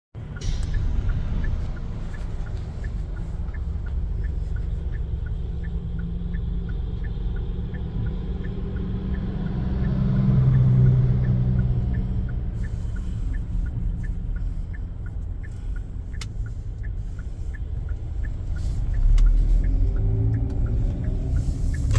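Motor vehicle running, heard from inside the cabin: a steady low engine and road rumble that swells for a moment about halfway through and again near the end. A light, regular ticking runs through it at about two to three ticks a second.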